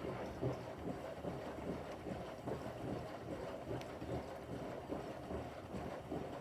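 Bosch front-loading washing machine's drum turning during a quick wash, with water sloshing as the pillow tumbles.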